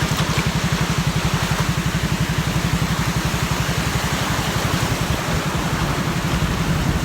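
A vehicle engine running steadily, a low, even pulsing under a hiss of road and wind noise, while travelling over a rough road.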